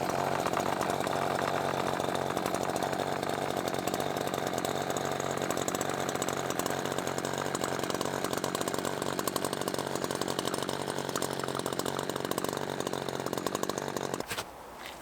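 Echo CS-620 two-stroke chainsaw idling steadily on its stock, unmodified muffler, then stopping near the end.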